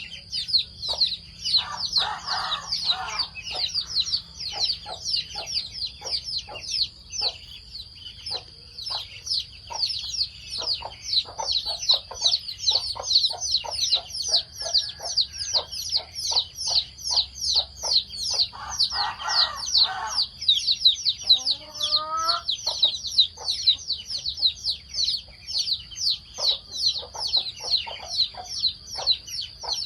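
Chickens feeding, with rapid pecking clicks throughout and a few short bursts of clucking. Constant high-pitched peeping carries on underneath, and a single rising call comes about two-thirds of the way through.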